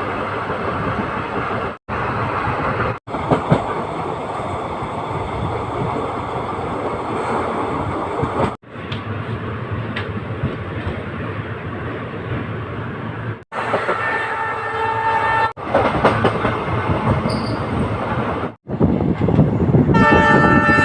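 Express train running, with steady rail and coach noise, cut off abruptly several times. The locomotive horn sounds with a chord of held tones about 14 seconds in and again near the end.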